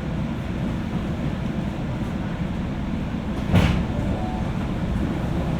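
Inside a JR West 201-series electric train car: a steady low rumble, with a sharp clunk about three and a half seconds in and another right at the end.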